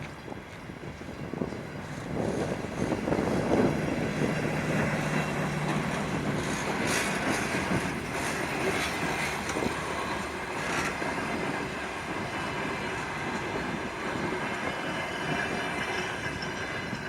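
RVR DR1 diesel multiple unit moving along the track: its diesel engine hums steadily for a couple of seconds, the wheels click sharply over rail joints a couple of times, and there is a faint high wheel squeal.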